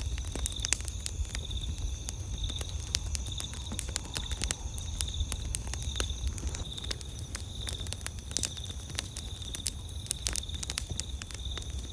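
Wood campfire crackling with frequent sharp irregular pops over a low steady rumble. Behind it an insect chirps in an even pulse, about twice a second, with a steady high trill above.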